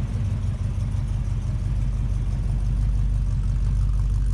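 Car engine running at idle with a low, pulsing rumble that grows a little louder about two seconds in.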